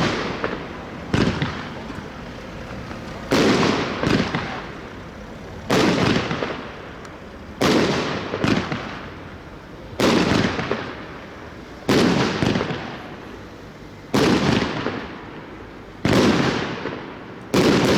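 Gaoo Memories firework battery firing shot after shot, a sharp loud bang about every two seconds. Some bangs are followed by a weaker second bang, and each trails off in a rumbling echo.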